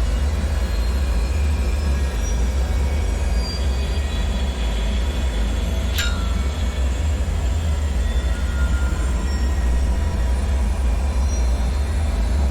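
Dark ambient drone for an abandoned bunker: a strong steady low rumble with faint, thin, high metallic squeals drifting in and out. One sharp metallic click rings briefly about six seconds in.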